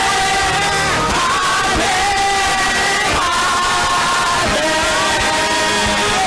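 Gospel choir singing with instrumental backing, voices holding long sustained notes over a steady beat.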